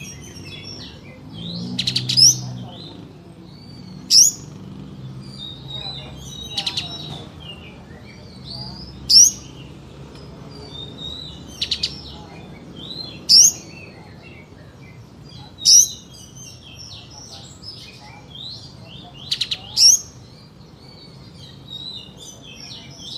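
Kapas tembak (pied triller) calling: about ten short, loud, sharp high-pitched calls at roughly two-second intervals, with softer twittering chirps between them.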